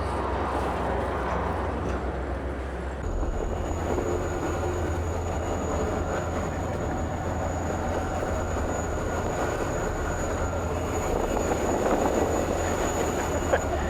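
Steady low rumble and clatter of a car ferry under way, heard from its vehicle deck. About three seconds in the rumble shifts and a thin, steady high whine comes in.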